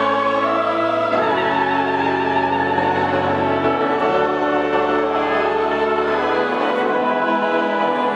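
Sacred choral music: voices singing held chords over orchestral accompaniment, the bass note moving to a new pitch every two or three seconds.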